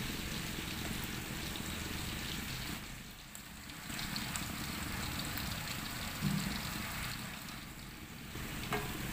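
A botok lamtoro mixture of leucaena seeds, tempe and anchovies sizzling in a frying pan over a gas flame while it is stirred with a wooden spatula. It is cooking down and almost dry, nearly done. The sizzle dips briefly about three seconds in.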